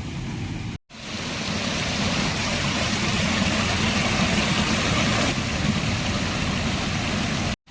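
Steady rushing roar of a wind and rain storm, with wind buffeting the microphone. It cuts out for a moment about a second in and again near the end.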